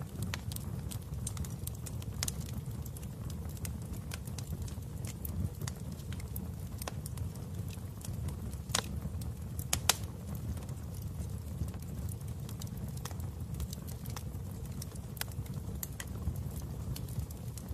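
Wood fire crackling in a fireplace: a steady low rumble of flames with scattered sharp pops and snaps, two louder pops about nine to ten seconds in.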